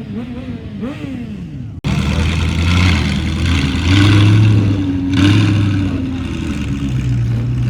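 Voices, then a sudden cut about two seconds in, after which a car engine runs at raised revs, its pitch and loudness stepping up and down a few times.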